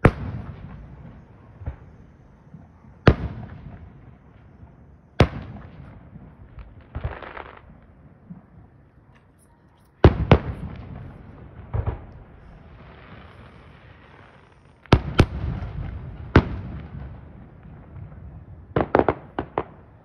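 Aerial fireworks bursting: a string of sharp bangs spaced a few seconds apart, each followed by a fading rumble of echo, ending with a quick cluster of bangs.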